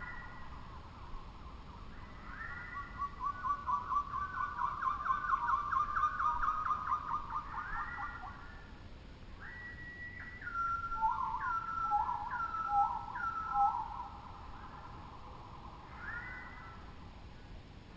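Birds singing clear whistled songs: rising notes, a long rapid run of repeated notes in the middle, then a few sliding whistled phrases.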